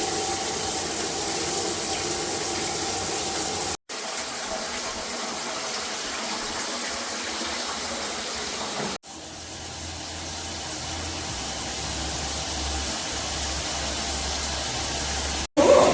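Water spraying steadily from a shower head, with the sound dropping out for an instant about four, nine and fifteen seconds in.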